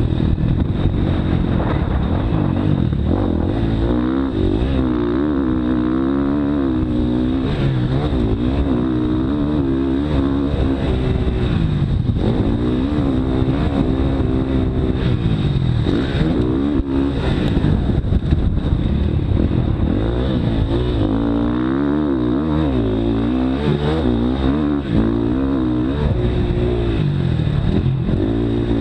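Motocross dirt bike engine revving hard, its pitch climbing and dropping over and over as it accelerates, shifts and backs off around the track.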